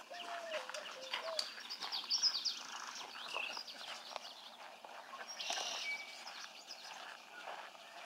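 Birds calling: a low hooting phrase that steps down in pitch over the first second and a half, then scattered high chirps and a short buzzy call about five and a half seconds in.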